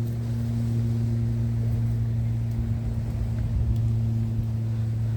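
A steady low mechanical hum with a rumble underneath, unchanging throughout.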